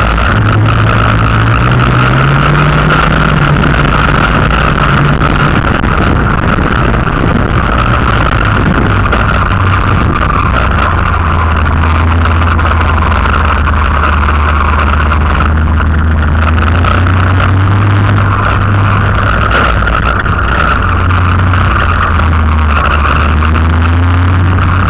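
Race car engine heard from inside the car on a dirt track, running loud and hard, its pitch climbing and falling as the driver works the throttle through the corners.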